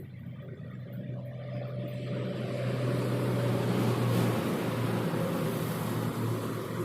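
Electric arc welding: a steady hissing crackle over a low buzz, growing louder about two seconds in and easing near the end.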